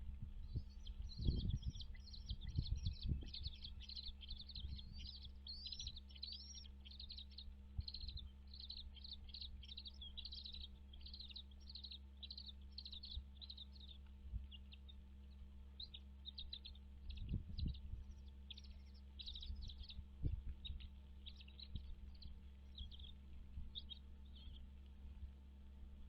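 Bald eagle giving a long series of short, high chirping calls, thinning out toward the end. Low thumps come about a second in and again twice in the second half, over a steady low hum.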